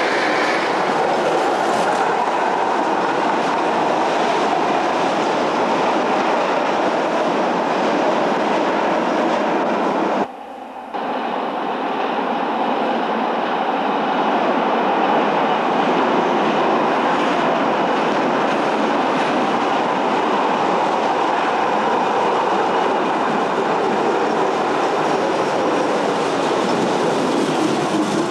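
A rail vehicle running along the track, a steady rumble of wheels on rails. The sound drops out briefly and suddenly about ten seconds in.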